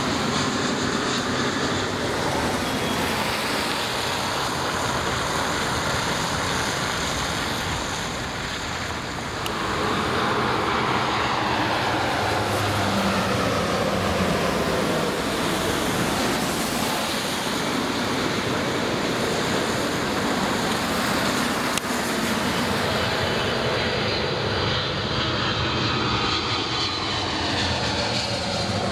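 Jet airliner engines passing close by: a steady, loud noise with a brief dip about eight seconds in, and a faint falling whine after it and again near the end.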